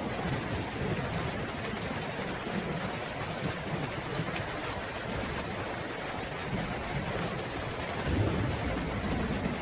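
Steady rain falling, with low rolling thunder rumbling underneath that swells near the end.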